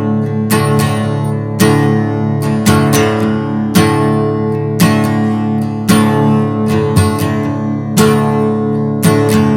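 Acoustic guitar strummed in a steady rhythm, about one strum a second, in an instrumental passage between sung lines of a song.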